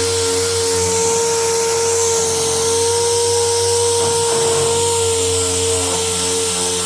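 Dual-action sander with 80-grit paper running steadily while sanding off paint and rust, a constant whine over a hiss.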